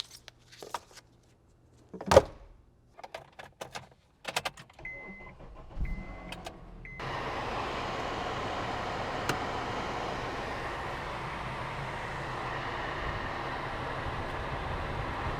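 Several clicks and knocks, then the car's warning chime beeps three times, and about seven seconds in a steady rush of air starts. This is the 2009 Honda Accord's cabin blower fan running, blowing through the newly fitted cabin air filter.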